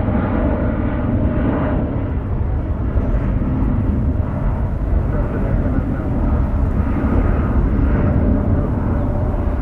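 Jet airliner engines running with a steady, loud rumble and a faint whine held at an even pitch.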